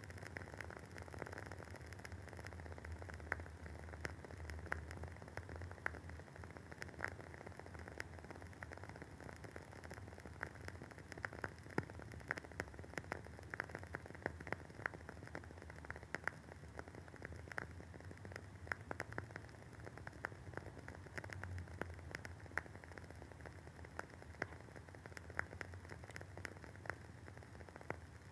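Wooden wick of a WoodWick candle crackling as it burns: irregular small pops and snaps, several a second, over a faint steady hiss and low hum.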